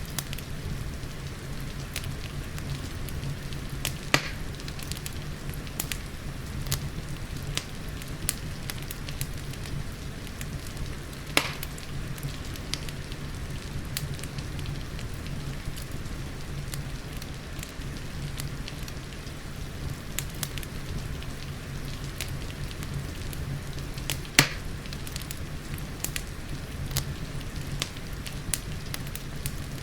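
Wood fire crackling, with many small pops and three louder snaps, over steady rain.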